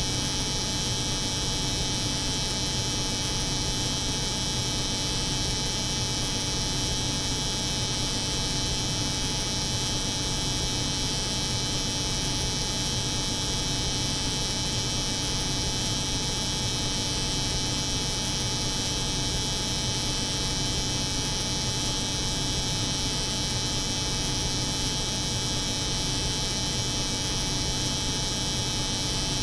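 Layered steady drone of an electric hair clipper buzzing over the hum of a cold room's refrigeration, unchanging throughout.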